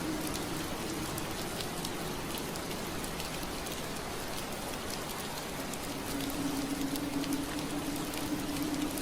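Steady rain pattering on window glass, an even hiss with scattered sharp drop ticks. A low steady hum sits under it, fading in the first second and coming back about six seconds in.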